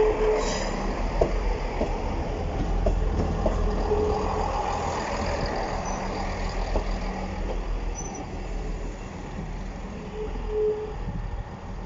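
East Midlands Railway Class 158 diesel multiple unit rolling slowly past on arrival, its diesel engines rumbling under the clicks of wheels over rail joints, with a few short squeals. The sound eases off near the end as the train moves away.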